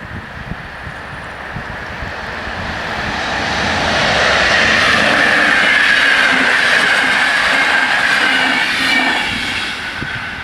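Intercity passenger train passing over the level crossing: its rushing and rolling noise with wheel clatter swells over a few seconds, holds loud, and fades near the end. A steady high tone, the crossing's warning signal, sounds throughout.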